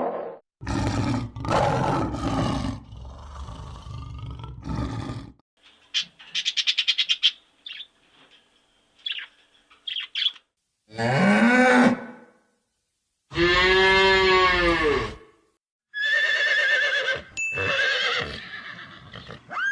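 A series of different farm animal calls, one after another with abrupt cuts between them: low roaring calls at first, a quick run of high clicking pulses, short chirps, then long pitched calls that rise and fall.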